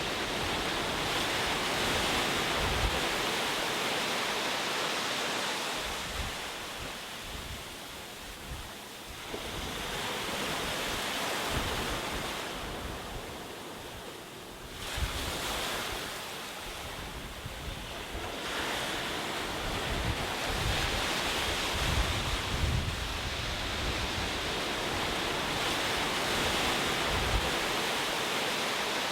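Ocean waves: a steady rush of surf that swells and falls back every several seconds, with a sudden surge about halfway through.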